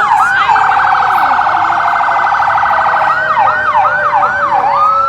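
Emergency vehicle sirens sounding together. One cycles in a fast yelp, switches for about two and a half seconds to a rapid warble, goes back to the yelp, then rises into a long wail near the end. Underneath, a second siren holds a steady tone that slowly falls in pitch.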